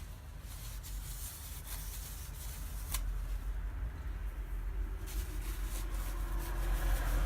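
Light rubbing and handling sounds of metal differential parts being set up for bearing pressing, with a sharp click about three seconds in, over a steady low hum.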